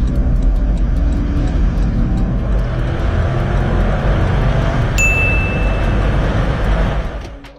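Car engine running at high revs under full-throttle acceleration, with road and wind noise, heard from inside the cabin. A single high beep sounds about five seconds in, and the engine sound fades out near the end.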